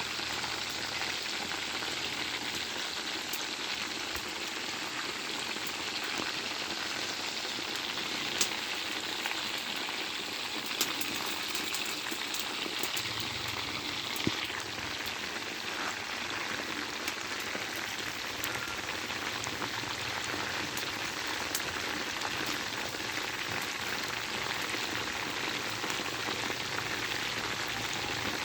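Chicken frying in a hot pan: a steady sizzle with a few sharp pops. About halfway through the sizzle turns lower and duller.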